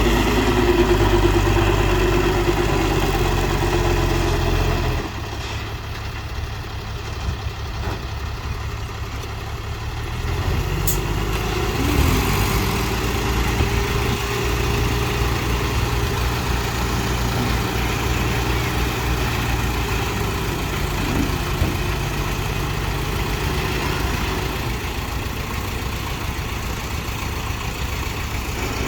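Heavy dump truck's diesel engine running steadily, louder for the first few seconds, then dropping back, and picking up again with a slight rise in pitch about ten seconds in.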